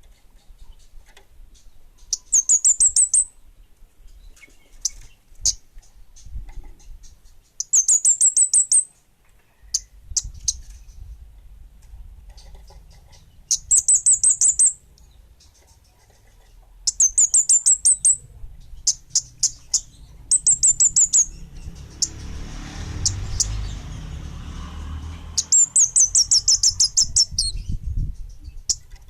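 A kemade bunga api songbird singing: loud, high, rapid trilled phrases of about a second each, repeated every few seconds. A low rumble runs under the song for a few seconds past the middle.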